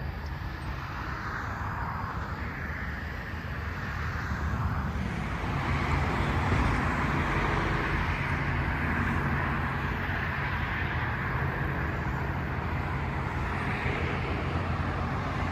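Outdoor ambience dominated by a steady low engine rumble. It swells to its loudest about six seconds in, then eases off slowly.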